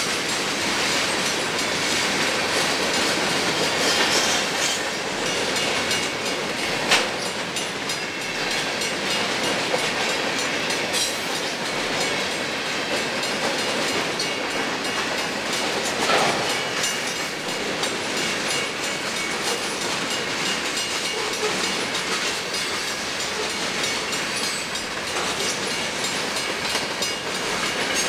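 Freight cars of a Canadian National manifest rolling past, the steady clickety-clack and rumble of their wheels over the rails, with a few sharp clicks along the way.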